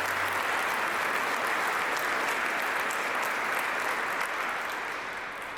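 Crowd applauding steadily, fading off near the end.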